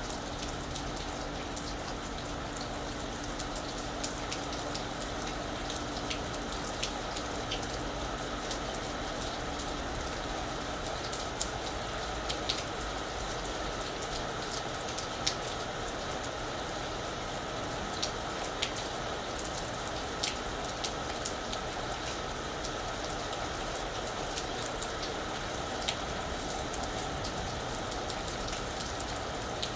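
Steady rain falling on a roof, an even patter with many scattered single drops ticking sharply on top.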